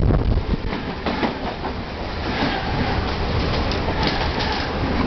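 Train wheels clattering over rail joints with a steady rumble, heard through the open doorway of a moving Mumbai suburban train, while an oncoming EMU local rushes past close alongside on the next track.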